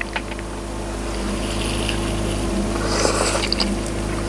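Steady low motor hum with a constant drone. About three seconds in there is a brief rustle and a few light clicks.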